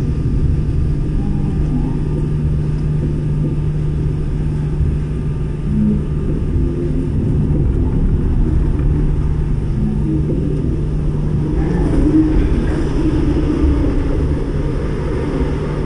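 RER B commuter train heard from inside the carriage: a steady low rumble of wheels on rail under a constant low hum, as the train pulls into a station.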